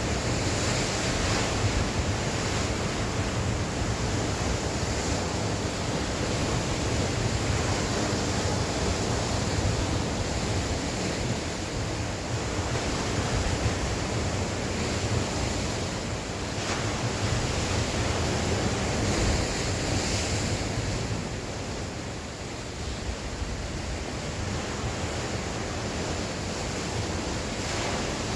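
Sea waves breaking and washing on the shore in a continuous surge, swelling and easing, with wind noise on the microphone.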